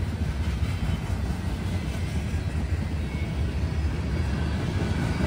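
Freight train rolling past: a steady low rumble with no break.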